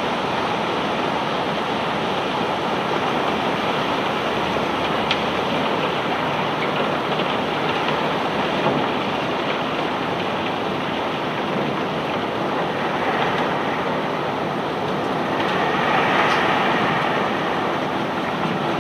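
Steady, continuous noise of cobblestones being unloaded from a barge by machinery, with a single sharp click about five seconds in and a brief swell louder near the end.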